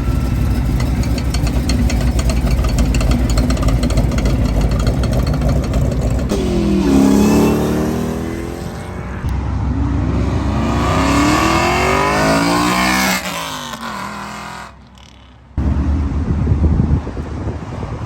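Car engine running loud, revving hard and accelerating twice, its pitch climbing on each pull. It drops away suddenly near the end, then engine noise comes back.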